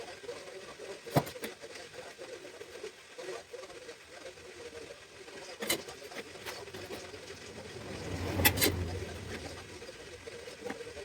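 A few sharp knocks and clinks, spaced seconds apart, the loudest about eight and a half seconds in with a brief low rumble: tools and parts being handled during work on a car's front suspension.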